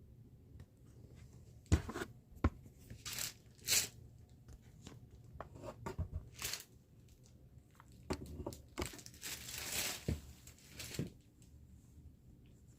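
Plastic parcel packaging being handled and torn open: scattered crinkles and short rips, with a longer tearing sound about nine seconds in.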